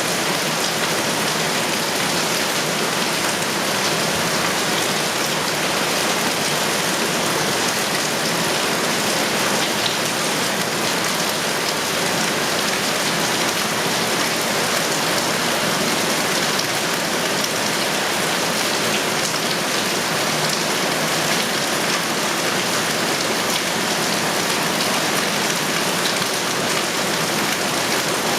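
Heavy rain falling steadily: a dense, even hiss of rain on surfaces that stays at one level throughout.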